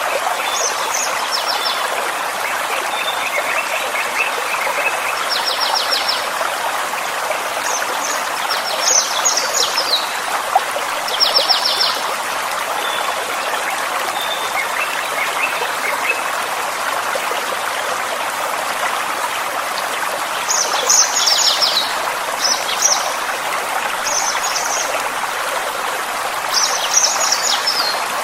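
Small forest stream running steadily, with songbirds singing short, quickly repeated trilled phrases every few seconds over the water.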